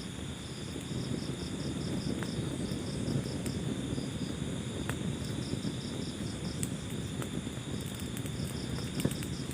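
Wood fire burning with a low rumble and scattered sharp crackling pops, the loudest about nine seconds in. A cricket chirps steadily over it in short trills of several quick pulses.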